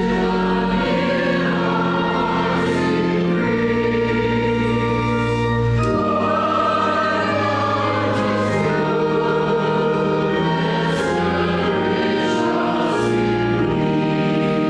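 Congregation singing a hymn with organ accompaniment, in held chords that change every second or two.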